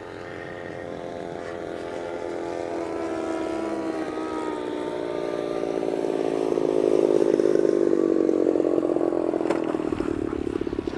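33cc engine of a Seagull Models Gilmore Red Lion Racer RC plane running on a landing approach. It grows steadily louder as the plane comes nearer while its pitch slowly falls, then eases off a little near the end.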